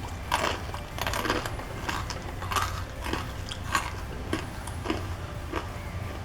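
Crisp, freshly fried rice-and-urad-dal murukku crunching in a run of short, irregular crackles, about one to two a second, its crispness showing it is fried through.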